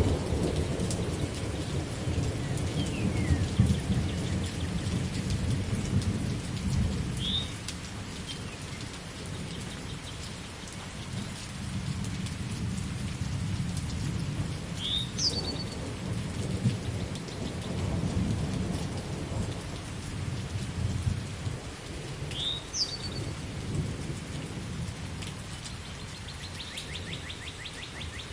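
Steady rain with long, rolling rumbles of thunder, loudest in the first few seconds. A bird gives short chirps a few times, with a brief trill near the end.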